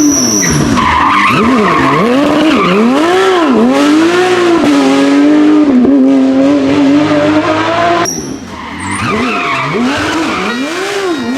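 Porsche 911 GT3 rally car's flat-six engine revving hard, its pitch rising and falling again and again through gear changes and lifts. About eight seconds in, the sound breaks off briefly and then the same up-and-down revving picks up again.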